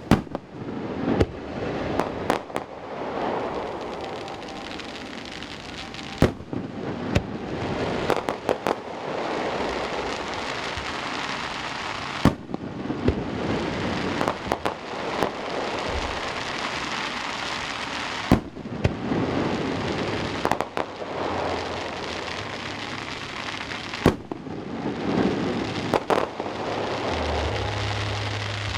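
Fireworks display: repeated sharp bangs of aerial shells bursting, every second or two, over continuous crackling and rumbling echo off the mountains around the valley.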